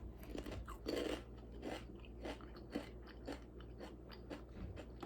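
Crunchy rolled tortilla chips (Takis) being chewed: a run of sharp crunches, about two a second, the loudest about a second in.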